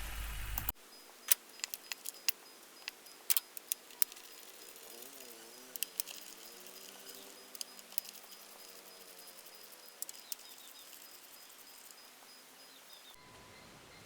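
The misfiring engine's running sound stops abruptly under a second in. Then faint, scattered sharp clicks and metallic taps follow, as the ignition coils and their connectors are worked loose for inspection.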